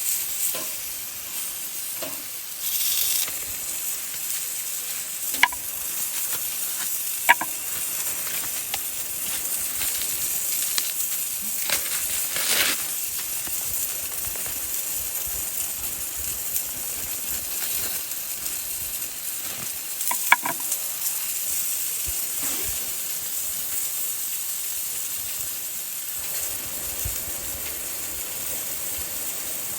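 Food sizzling as it fries in a pan, a steady hiss, with three sharp clicks along the way.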